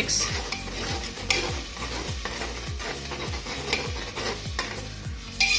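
A spatula stirring wet onion paste frying in hot mustard oil in a pressure cooker, with a continuous sizzle and repeated scrapes of the spatula against the pot.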